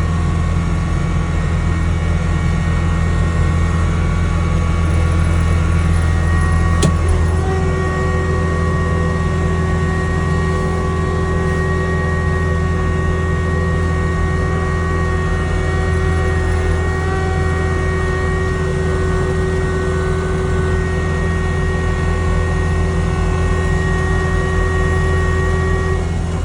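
Snowblower engine running steadily under load, cutting into snow as deep as the blower can take. A steady whine rides over the engine drone, with a single sharp click about seven seconds in.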